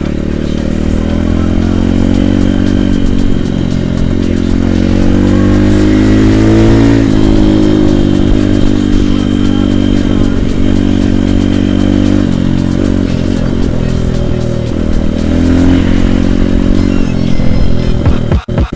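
Small single-cylinder pit bike engine running under way. Its pitch climbs with the throttle around the middle, drops suddenly at a gear change, then rises and falls again.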